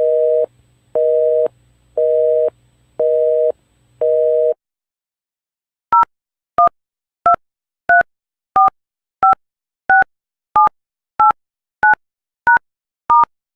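Telephone busy signal: five steady two-tone beeps, half a second on and half off. After a short pause come twelve quick touch-tone keypad beeps, each a different pair of tones, as a number is dialled.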